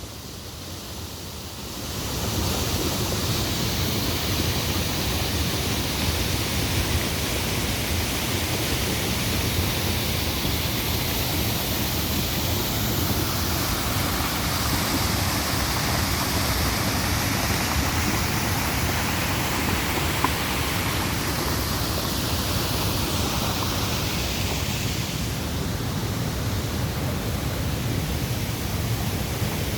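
Waterfall rushing: a steady, loud wash of falling water that swells about two seconds in and then holds.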